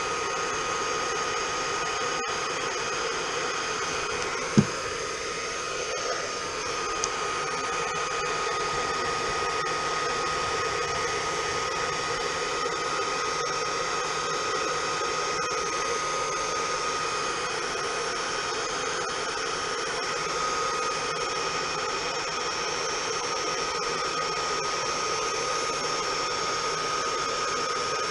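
Handheld hair dryer running steadily, a rushing blow with a steady high whine. A single short knock about four and a half seconds in.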